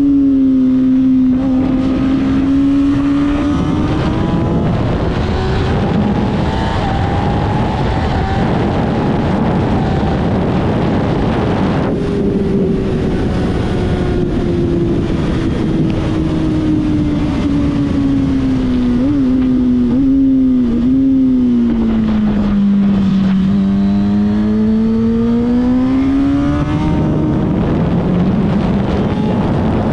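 Sport motorcycle engine heard from on board at speed, under heavy wind rush: the revs climb, drop sharply at a gear change about twelve seconds in, then sink slowly, with three quick throttle blips as it downshifts around twenty seconds in, before climbing hard again.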